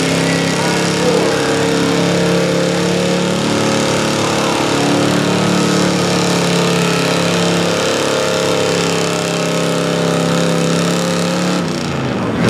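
Pulling truck's engine held at high revs under full load as it drags the sled, its pitch steady apart from small shifts, then letting off and falling away near the end.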